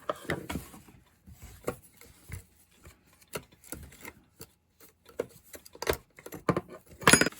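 Scattered clicks and light knocks of hand tools and plastic parts being worked during disassembly of a Poulan Pro 4620 chainsaw's handle assembly, with a louder clatter near the end.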